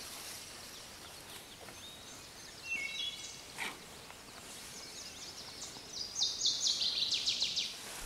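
Wild birds singing and calling over a steady hiss: scattered high chirps, a few short whistled notes about three seconds in, and near the end a fast run of notes stepping down in pitch.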